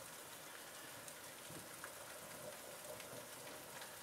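Rain falling steadily, a faint even hiss with scattered light ticks of drops, heard from behind a rain-spattered window pane.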